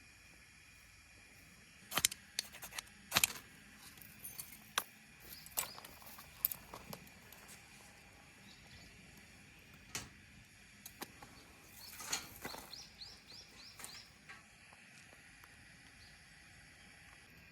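Scattered sharp clicks and light clattering of small hard objects being handled, with a quick run of short chirps about twelve seconds in.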